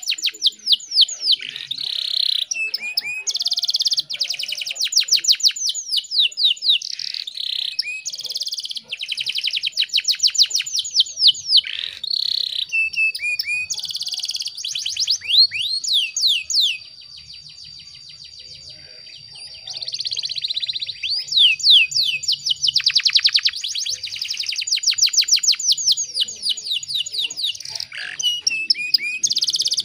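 Canary singing in long, fast trills and rolls of rapidly repeated high notes, with a brief quieter lull a little past the middle.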